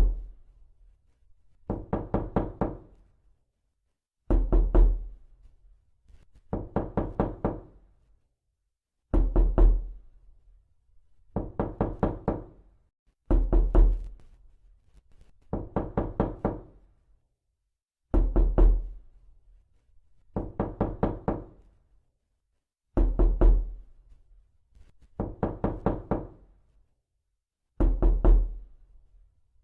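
Knocking on a door with the knuckles: quick groups of four to six knocks, repeated every two seconds or so with short silences between.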